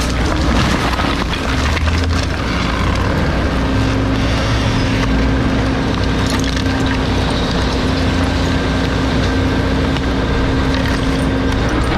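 Bulky-waste garbage truck's compactor crushing its load: a steady hydraulic hum with a held tone, over crackling and splintering of wood being broken.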